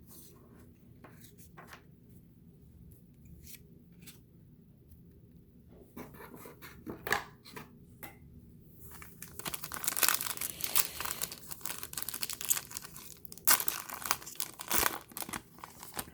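Faint clicks of trading cards being handled, then from about six seconds in the crinkling and tearing of a plastic trading-card pack wrapper being ripped open, loudest over the last several seconds.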